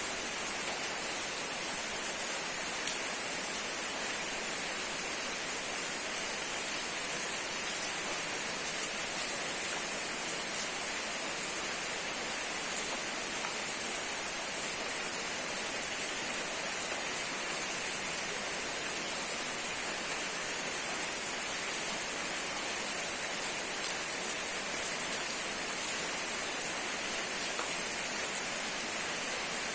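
Steady rain falling: an even, unbroken hiss, with a few louder ticks from single drops.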